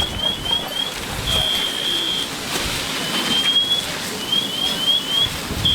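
High-pitched electronic alarm cycling through a repeating pattern: a slow rising sweep, four quick rising chirps, then a held steady tone, starting over about every four seconds. It sounds twice over a steady rushing noise.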